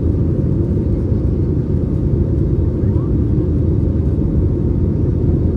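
Cabin noise of an Airbus A321neo in flight: a steady low rumble of the engines and airflow, heard from inside the cabin.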